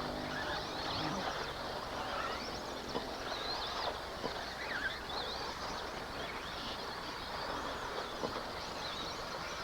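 Several electric RC off-road trucks running around the track together: a dense mix of motor whines that glide up and down in pitch as they speed up and slow, with a few light knocks.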